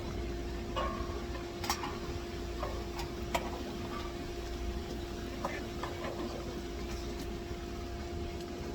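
A steady electrical hum, pitched at one constant note with a fainter overtone, with a low rumble beneath and scattered light clicks and taps throughout.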